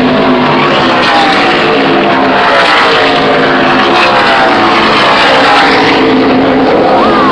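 NASCAR stock cars' V8 engines racing past, several at once, each engine's pitch falling as it goes by. Loud and harsh, a bad recording of the sound.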